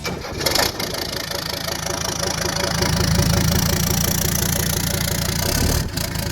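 Turbodiesel five-cylinder engine of a 1983 Mercedes-Benz 300SD idling steadily with a fast, even diesel knock, with a short rush of noise about half a second in.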